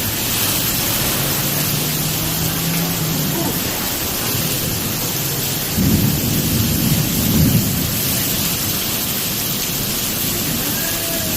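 Heavy storm rain and wind, a dense steady hiss, with a louder low rumble about six to seven and a half seconds in.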